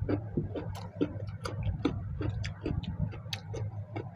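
Close-miked eating: wet chewing and lip-smacking as mouthfuls of rice and mutton curry are eaten by hand, a quick, irregular run of small clicks over a low steady hum.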